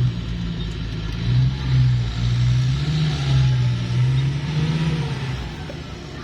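A vehicle engine revving, its pitch rising and falling several times, then dropping away and fading near the end.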